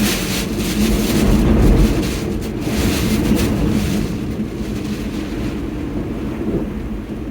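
A motor running steadily, with gusts of wind noise on the microphone.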